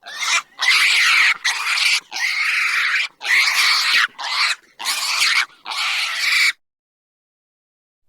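An animal making about eight harsh, hissy calls in quick succession, each under a second long, stopping about six and a half seconds in.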